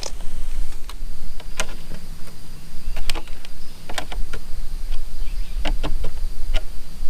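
Scattered light clicks and taps of a small driver on the screws and parts of an Axial Wraith RC truck as they are checked for tightness, over a steady low hum.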